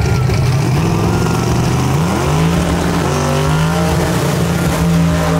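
A race car engine running at a steady idle. The revs rise about two seconds in and then hold at the higher pitch.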